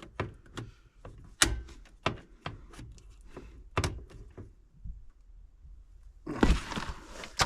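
Scattered sharp clicks, taps and knocks of small metal parts and tools being handled while a replacement relay is fitted, with a louder scraping rattle lasting about a second near the end.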